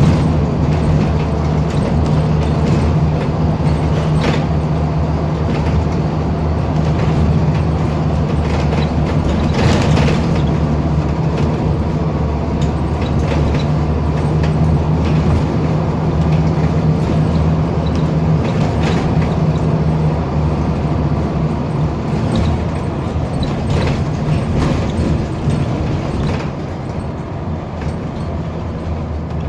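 Scania N230UD double-decker bus's diesel engine, heard onboard, held at high revs under load because of a slipping ZF automatic gearbox. The note holds steady, then eases slightly about twenty seconds in.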